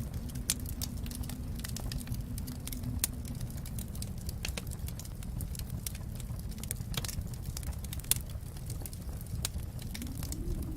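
Wood fire crackling in a fireplace: irregular sharp pops and snaps over a steady low rumble of the flames, with louder pops about three seconds in and about eight seconds in.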